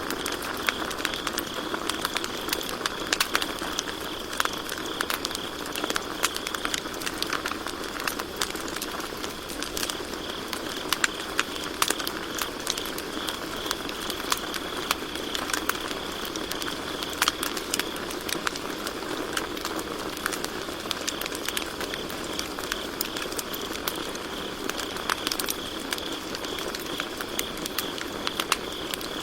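Campfire crackling with frequent sharp pops, and crickets trilling steadily behind it.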